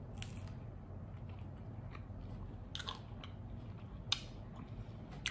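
A bite into sourdough bread topped with avocado and salad, then chewing with a handful of short, crisp crunches spread out, the loudest about four seconds in.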